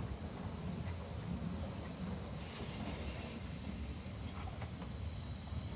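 Steam locomotive hissing softly over a steady low rumble, with a louder burst of hissing about halfway through.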